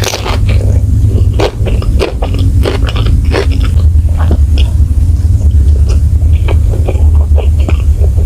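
Close-miked mouth sounds of someone biting and chewing spicy baby squid, a string of short, irregular wet clicks and smacks. A steady low hum runs underneath.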